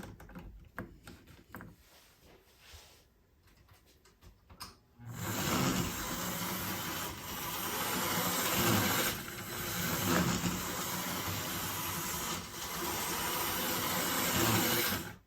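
Small electric motor of a Thomas the Tank Engine model locomotive whirring as it runs around Code 83 track, starting about five seconds in after a few faint clicks. It keeps running without derailing despite its big wheel flanges.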